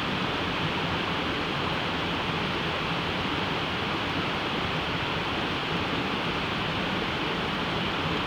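Steady, even rushing noise with no distinct pops or other events.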